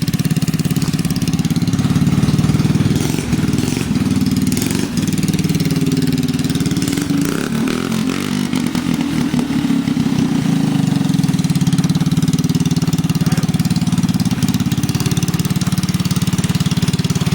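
Briggs & Stratton 5 hp single-cylinder four-stroke engine running steadily on test after a head gasket rebuild, its speed wavering briefly about halfway through.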